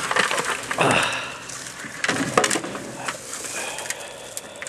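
A bucket being picked up and handled, with irregular clattering, knocking and scraping as it and the debris inside it move.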